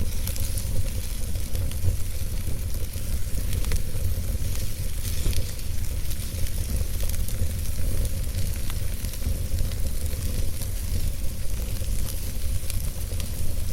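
Wood fire burning in a fireplace, crackling and popping in frequent irregular small snaps over a steady low rumble of the flames.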